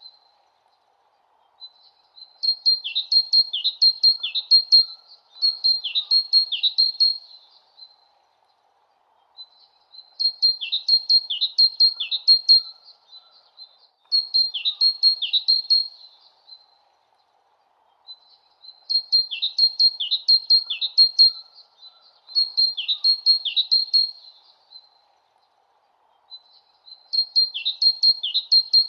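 Bird tweeting: bursts of rapid high chirps with quick downward slurs, each burst lasting two to three seconds. The bursts come in pairs separated by short pauses, and the same phrases recur about every eight seconds.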